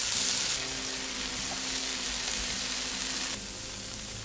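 Slices of fresh ginseng glazed with gochujang sauce sizzling steadily in a frying pan on low heat. The sizzle drops slightly about three and a half seconds in.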